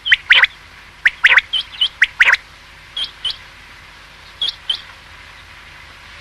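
Common quail calling: short, sharp rising notes, mostly in pairs and quick runs, for about five seconds, then a pause.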